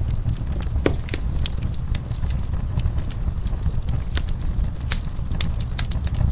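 Wood fire in a fireplace crackling, with sharp irregular pops and snaps over a steady low rumble.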